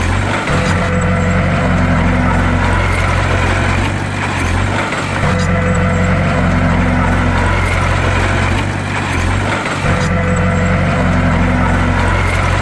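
Bulldozer's diesel engine running hard, its sound easing briefly and building again in a regular cycle about every five seconds.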